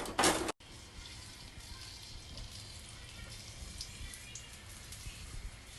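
Slices of ginger sizzling in hot cooking oil in a pan: a steady crackling hiss with scattered small pops.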